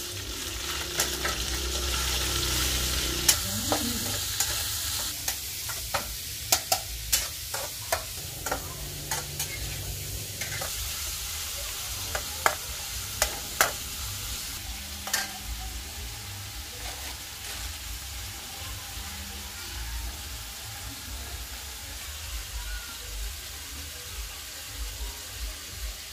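Pork stir-frying in a steel wok over a gas burner: a steady sizzle that swells over the first few seconds as the meat goes in. A metal spatula scrapes and clanks against the wok, with most of the sharp clanks in the first half.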